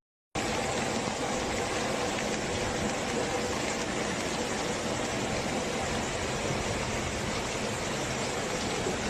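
Steady rush of heavy rain and floodwater, an even noise with no breaks, starting just after a brief silent gap at the beginning.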